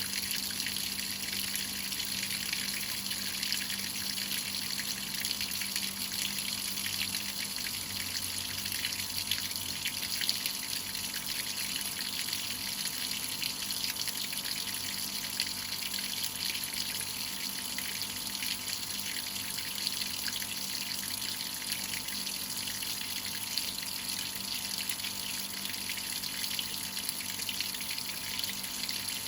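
Whirlpool top-load washing machine with water running steadily into the tub, an even hiss with a faint low hum underneath.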